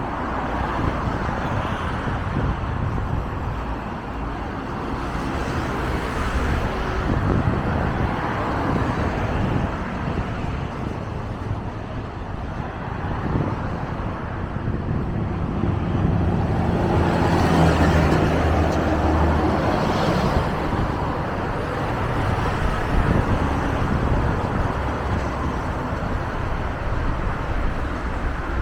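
City bus diesel engine and street traffic: a heavy engine grows louder a little past halfway, peaks, then eases off.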